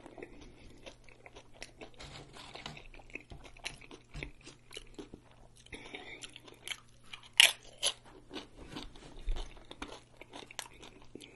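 Close-miked chewing and mouth smacking, with two loud crunches a little past halfway as a tortilla chip is bitten and chewed.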